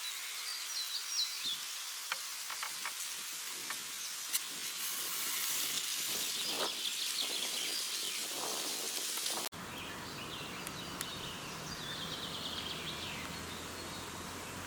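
Forest ambience: small birds chirping and singing over a steady hiss, with a few scattered clicks. About nine and a half seconds in the background changes abruptly at a cut, and a faint low hum joins it.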